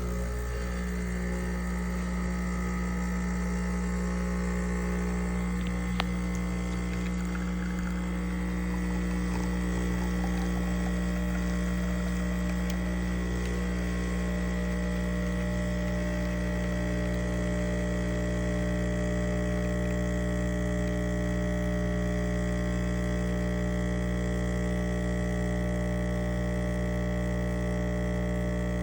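Home espresso machine brewing: its water pump runs with a steady hum, and a single click sounds about six seconds in.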